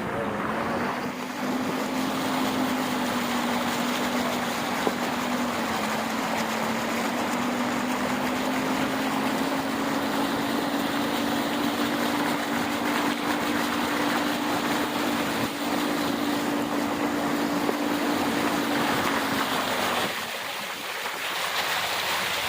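A steady engine hum that drifts slightly up in pitch over a loud, continuous rushing of water. The hum stops near the end, leaving the rushing of the floodwater alone.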